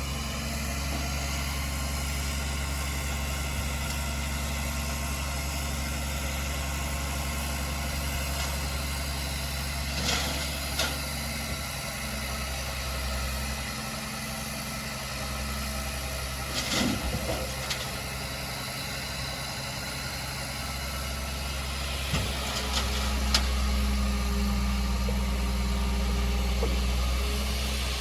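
Diesel engine of heavy earthmoving machinery running steadily. It eases off partway through, then picks up again, with a few sharp metallic clanks.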